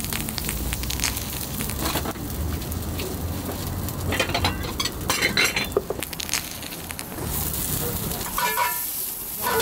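Gyoza frying in a hot pan, a steady sizzle with scattered clinks and knocks of pans and utensils.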